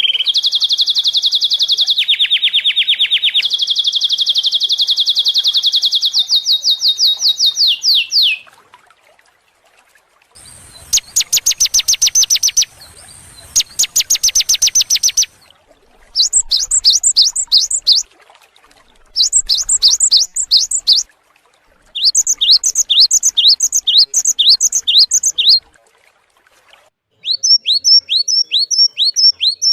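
Recorded songbird song used as bird-training 'masteran': a long, very fast high trill that stops about eight seconds in, then after a short pause a series of separate bursts of rapid repeated chips and quick downward-sweeping notes.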